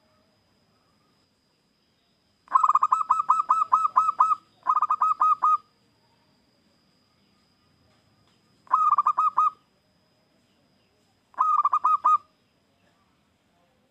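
Zebra dove (perkutut) calling: four bursts of quick, evenly repeated cooing notes, the first and longest lasting about two seconds, the others about a second each, with short pauses between.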